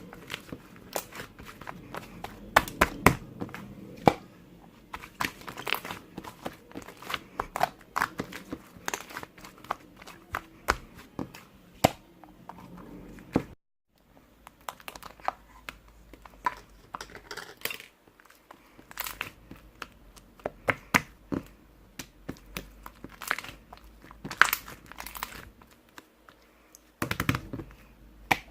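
Handmade slime being squeezed and stretched by hand, giving many irregular sharp clicks and crackles. The sound cuts out briefly about halfway through.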